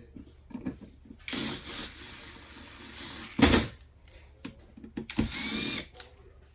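Hands working on dishwasher parts and wiring: small clicks and handling noises, two short scraping rustles, and one sharp knock about three and a half seconds in.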